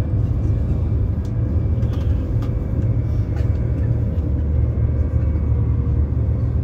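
High-speed train's steady low running rumble, heard from inside the passenger carriage while it travels at speed, with a few faint ticks.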